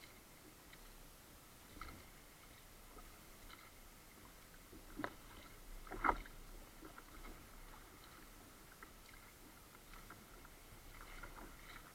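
Kayak paddling: the paddle dipping and dripping in the water, faint, with two sharper knocks or splashes about five and six seconds in, the second the louder.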